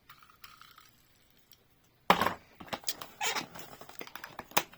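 Handling of a diecast toy set and its packaging: a sharp knock about two seconds in, then a run of clicks and crackles.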